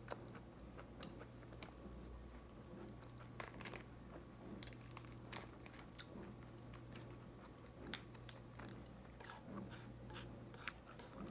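Faint close-miked chewing of a bulgogi lettuce wrap: soft crunching of lettuce with scattered small mouth clicks.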